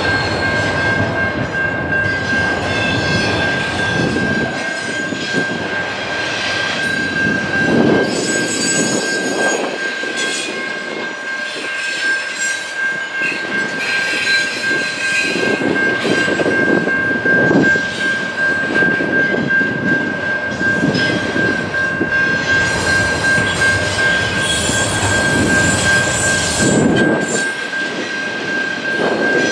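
A train rolling past with its wheels clattering over the rails, and a steady high-pitched wheel squeal running throughout.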